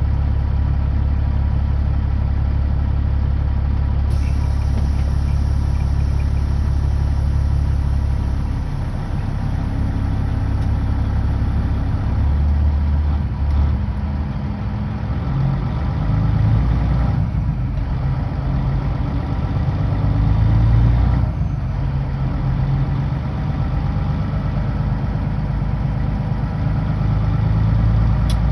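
Kenworth W900L semi truck's diesel engine running on the highway, a steady low drone whose pitch steps up and down several times, with two brief dips about two thirds of the way through.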